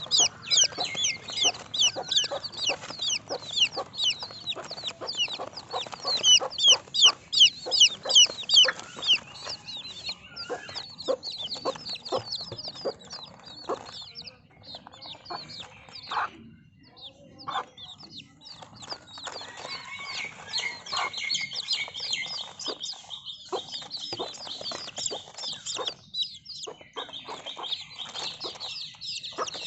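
Baby chicks peeping: a dense chorus of short, high, downward-sliding cheeps, with short clicks mixed in. There is a brief lull around the middle, and the chorus is loudest in the first third.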